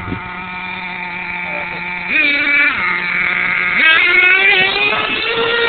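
Small nitro glow-fuel engine of an RC monster truck running with a steady high buzz. It is revved twice: a short blip about two seconds in, then a longer rev that climbs in pitch from about four seconds in.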